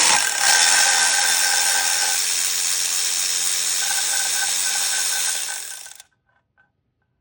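Power tool running steadily for about six seconds as it backs out a bolt deep in the engine bay, then winding down.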